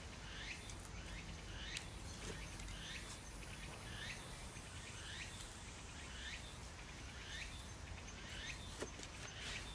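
A bird calling over and over, one short chirp about every three-quarters of a second, over a quiet garden background. Faint rustles and taps of soil being handled with gloved hands and a trowel.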